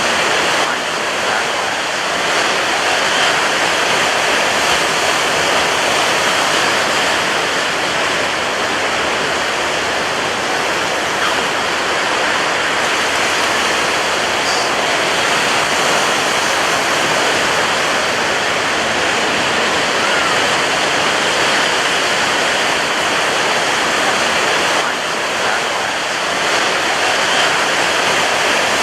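Ocean surf breaking on a beach: a steady, dense wash of rushing water with no clear gaps between the waves.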